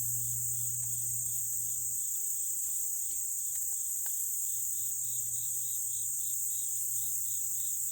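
Insects singing in chorus: a steady high-pitched drone, with a second, lower chirp pulsing about four times a second. A faint low hum runs underneath, and there are a few light clicks.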